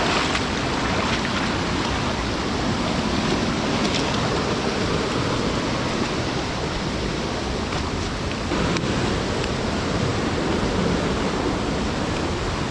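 A steady, even rushing noise, like running water, with no distinct events.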